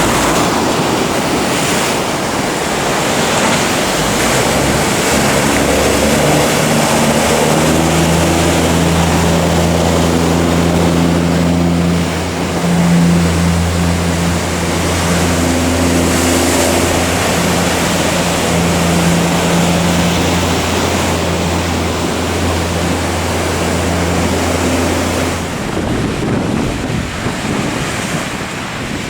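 Ocean surf and wind noise on the microphone, with a boat's engine droning low from about six seconds in until a few seconds before the end.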